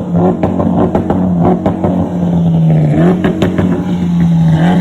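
Mitsubishi Lancer Evolution X's turbocharged four-cylinder engine running hard at high revs under way, with many sharp crackles over it. The pitch dips and climbs again about three seconds in, and again near the end.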